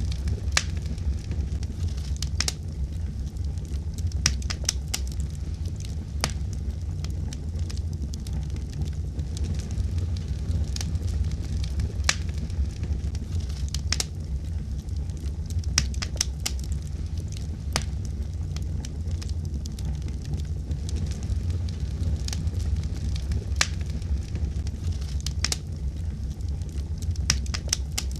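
Wood fire in a fireplace burning with a steady low rumble and irregular sharp crackles and pops.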